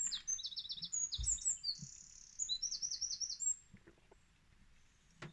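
A songbird singing quick runs of short, high, down-slurred notes, phrase after phrase, stopping about three and a half seconds in.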